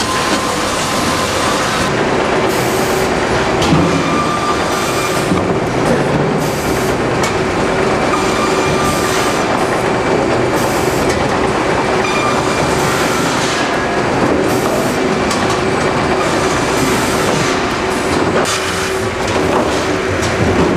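Sawmill line machinery running: a steady mechanical rattle and clatter with a constant hum, and short high hissing bursts recurring every second or so.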